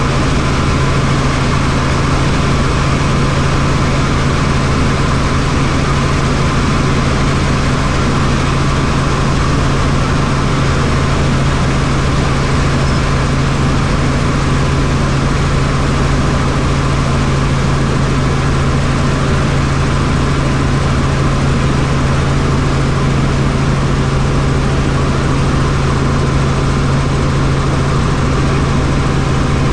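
Helicopter in flight: a steady, loud turbine-and-rotor drone with one constant low hum, unchanging throughout.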